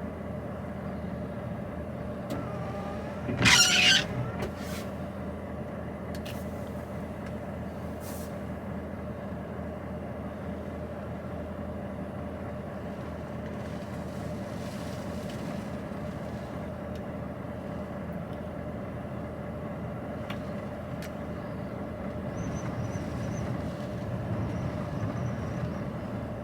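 HGV lorry's diesel engine idling steadily, heard from inside the cab, with a brief loud burst of noise about three and a half seconds in.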